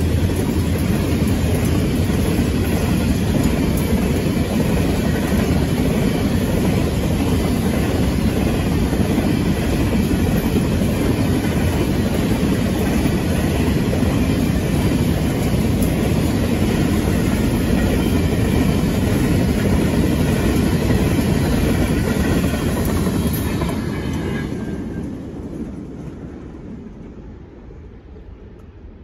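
A long string of broad gauge grain hopper wagons rolls past with a steady rumble of wheels on rail. It fades away over the last few seconds as the end of the train passes.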